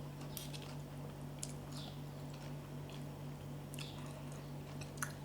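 A person chewing a mouthful of santol salad, with soft wet mouth clicks scattered every second or so, over a steady low hum.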